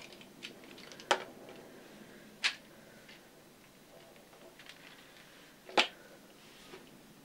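A few sharp, irregular clicks or taps, three louder ones about a second, two and a half seconds and six seconds in, with fainter ticks between, against a quiet room hush.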